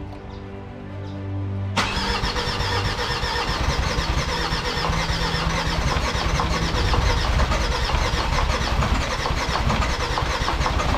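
Starter cranking the rebuilt Mercedes OM612 five-cylinder common-rail diesel, beginning abruptly about two seconds in, with a steady rhythmic pulse as it turns over. The engine does not fire: it turns but won't start.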